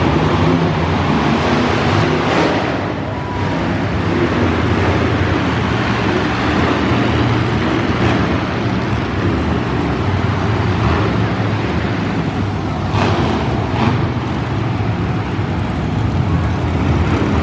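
Monster truck engine running loudly and steadily, with a few brief surges.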